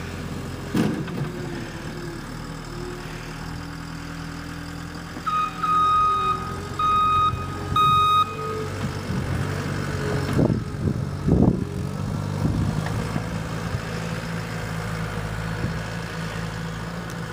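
Small snow-clearing machine's engine running steadily while it works, its backup alarm beeping about four times partway through, with a few sharp clanks a couple of seconds later.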